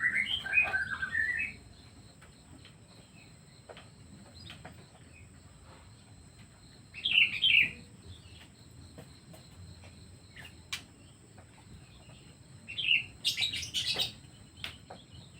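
Pet songbirds chirping in short flurries: one at the start, another about seven seconds in, and a busier one near the end, with faint scattered clicks in between.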